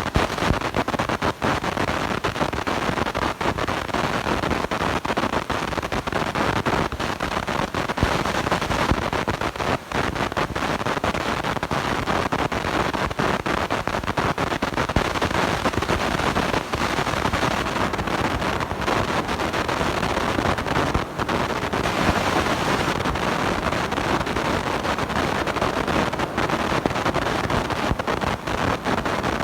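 Loud, steady crackling static from a blown microphone, broken by constant brief dropouts.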